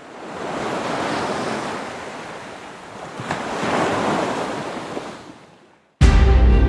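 Sea waves washing in two slow surges, then fading away; loud music starts abruptly near the end.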